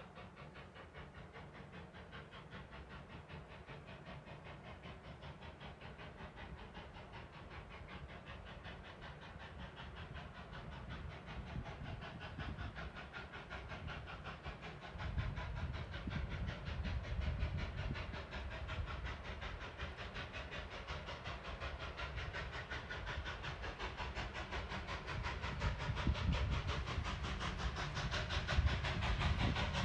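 Narrow-gauge steam locomotive and its train drawing nearer, the running sound and hiss growing steadily louder, with a heavier low rumble coming in about halfway through.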